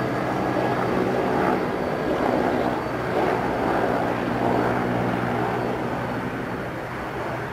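Airliner engines running, a steady low drone under a rushing noise.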